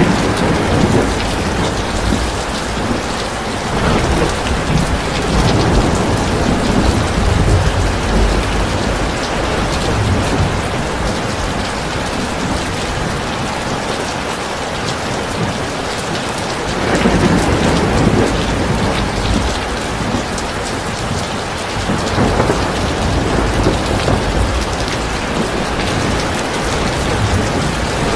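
Heavy rainfall pouring steadily, with deep rolling rumbles of thunder that swell and fade, the strongest about two-thirds of the way through.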